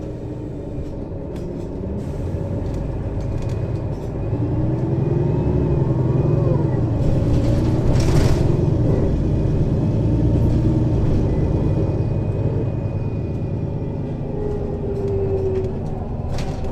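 Mercedes-Benz Citaro city bus engine under load with its ZF Ecomat automatic gearbox, heard from above the engine compartment. It swells from about four seconds in, with gliding whine tones, then eases off. A short hiss comes about eight seconds in, and clicks near the end.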